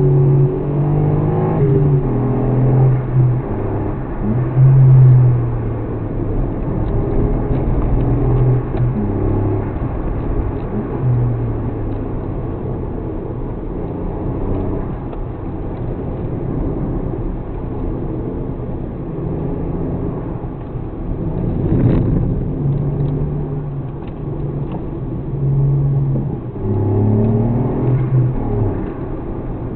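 Suzuki Alto Works (HA36S) 660 cc turbocharged three-cylinder engine running under way. The engine note changes pitch in steps as the car accelerates and shifts, with rising revs about a second in and again near the end.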